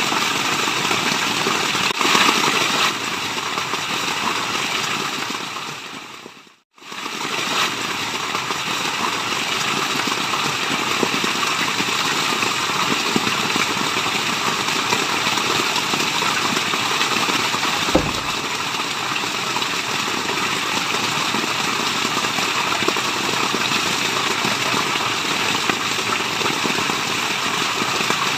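Steady rushing water of a waterfall that fades to silence about seven seconds in and swells straight back. A single sharp click is heard about eighteen seconds in.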